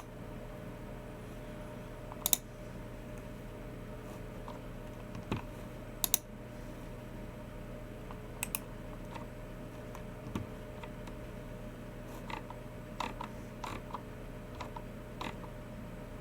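Typing on a Logitech MX Keys Mini low-profile keyboard, mixed with Logitech G304 mouse clicks. A few sharp clicks come several seconds apart, then a quicker run of light keystrokes in the last few seconds, over a steady low hum.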